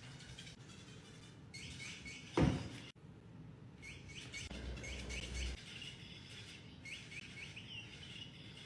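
Bird-like chirping in quick runs of short, high notes, three runs in all. A loud thump or rustle comes about two and a half seconds in.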